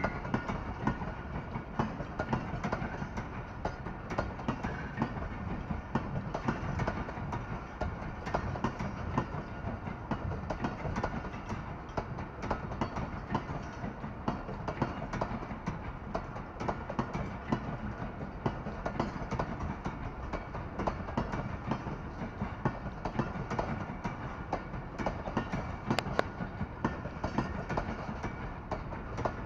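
Pakistan Railways passenger coaches rolling past on the track: a steady rumble with a continuous clatter of wheel clicks over the rails.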